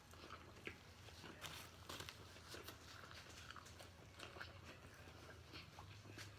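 Faint chewing of a mouthful of burger: soft wet smacks and mouth clicks at an irregular pace, over a low steady hum.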